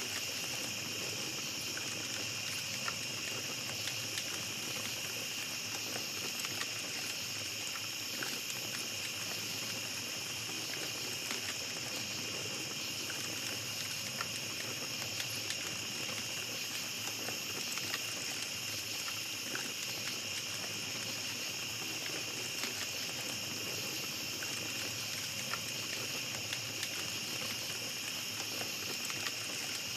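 Small campfire crackling with scattered sharp snaps and pops, over a steady high chorus of night insects.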